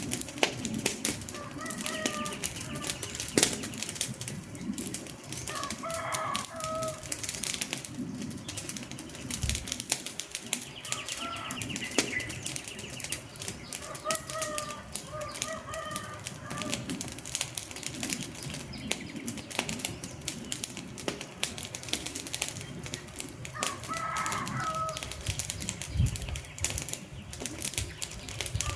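Wood fire crackling and popping steadily, with a few short pitched calls now and then over it.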